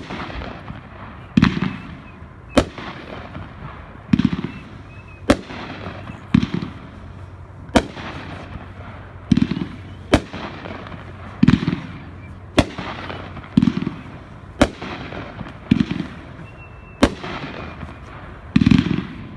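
A consumer 500-gram fireworks cake firing single shots at an even pace, about eight in all. Each shot is a dull thump as the shell leaves its tube, followed about a second later by a sharp bang as it breaks overhead.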